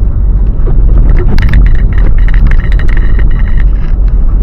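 Car driving on a snowy road, heard from inside the cabin: a loud, steady low rumble of road and engine noise. Some clicks and a faint high tone come in the middle.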